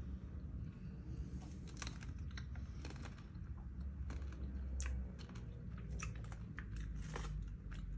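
A person chewing a spice-powder-coated roasted almond close to the microphone: irregular crisp crunches that come thickest from about five seconds in, over a steady low hum.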